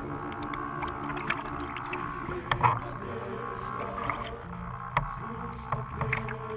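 Water splashing and lapping in short irregular slaps, over a steady low hum and a gusty rumble of wind.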